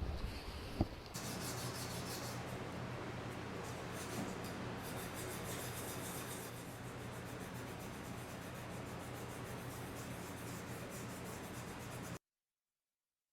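Hand rubbing on a lacquer-repaired ceramic piece in kintsugi work, a steady run of quick back-and-forth strokes. It cuts off abruptly about a second before the end.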